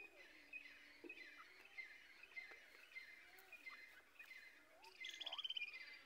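Faint bird chirps, short notes repeated every half second or so, with a quick rattling trill about five seconds in.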